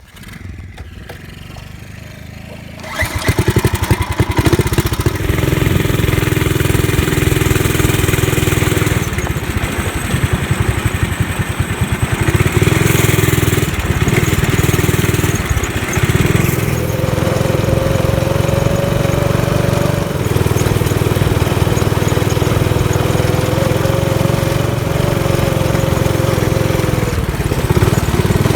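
Small garden tractor engine running, jumping to full throttle about three seconds in. It then holds a steady, loud drone whose pitch rises and dips a few times as the tractor is driven.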